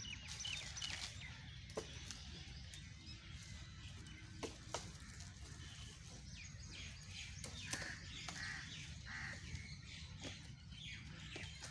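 Birds chirping and calling in short high notes over a steady low rumble, with a few sharp clicks.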